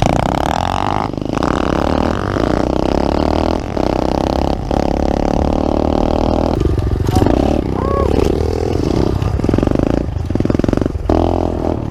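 Pit bike engine running hard at high revs, the throttle closing and opening again several times so the pitch drops and climbs in short surges.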